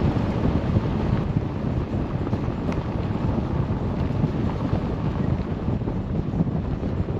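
Car driving up a rough unpaved mountain road: a steady low rumble from tyres and engine, with a buffeting sound like wind on the microphone.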